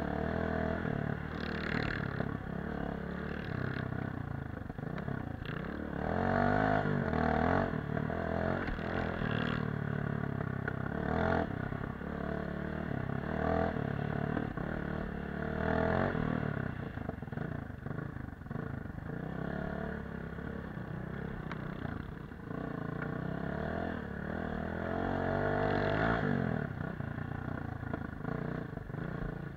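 Off-road motorcycle engine running under way, its sound rising and falling with several throttle surges as it is ridden.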